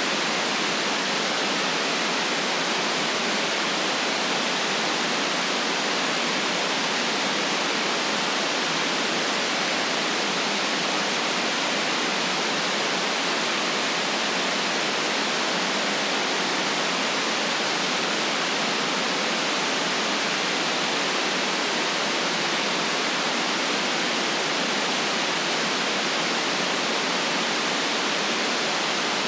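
Steady synthetic white noise, an even hiss with no changes, its low bass and highest treble cut off.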